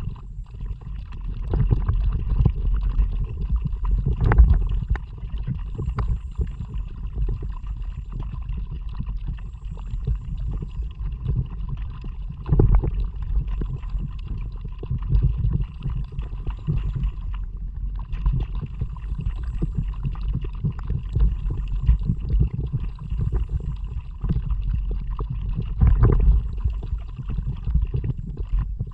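Water sloshing and gurgling around a kayak under paddle, heard through an action camera's microphone as a steady low rumble with a few scattered knocks.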